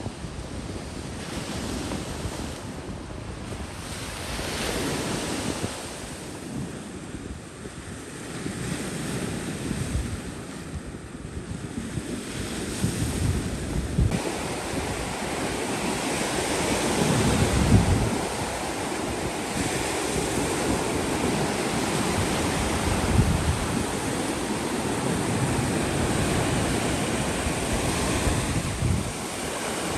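Ocean surf washing in, with strong wind buffeting the microphone in low gusts. The wind and surf grow louder about halfway through.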